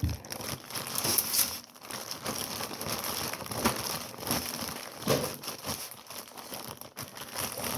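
Crinkling and rustling of packaging as cut raw shoestring fries are poured out and spread by hand, with scattered soft taps.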